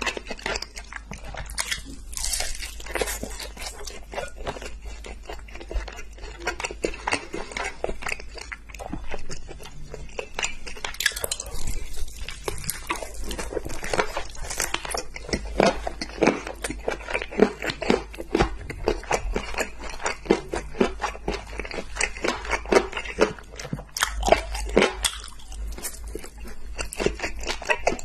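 Close-miked biting and chewing of roast chicken meat off a drumstick: a dense, irregular run of small mouth clicks and bites.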